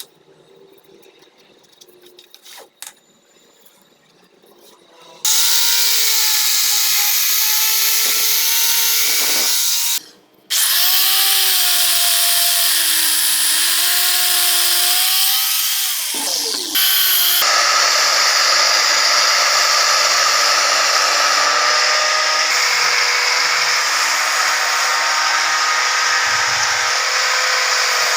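Handheld electric power tool running on wood. It starts about five seconds in, stops briefly near ten seconds, then runs again. Its whine dips and rises as the load changes, then holds steadier from about seventeen seconds on.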